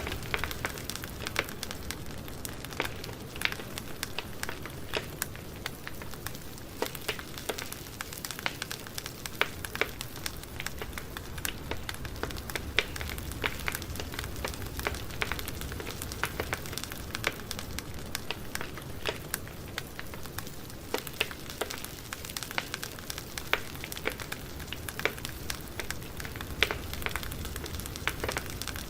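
Wood campfire burning steadily, with a soft low rush of flames and frequent irregular crackles and pops.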